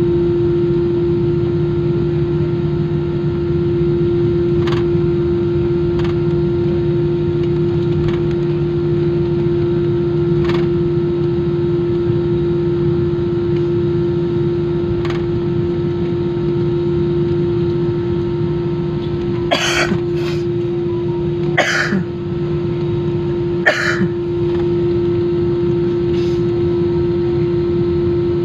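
Steady drone of an airliner cabin, a constant hum with a held tone over it. Faint clicks come every few seconds, and there are three sharper clatters near the end.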